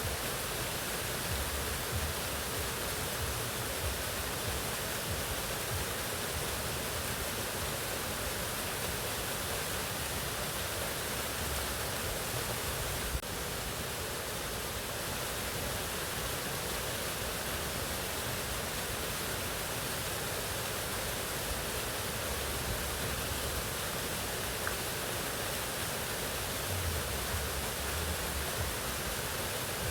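Mountain waterfall: water pouring and splashing in a steady, even rush.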